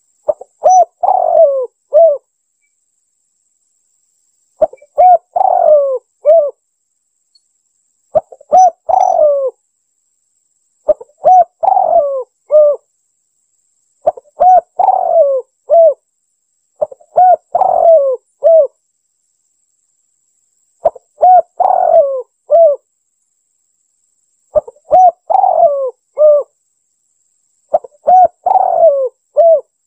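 Spotted dove (tekukur) cooing: a phrase of several coo notes, about two seconds long, repeated nine times every three to four seconds with clean silence between.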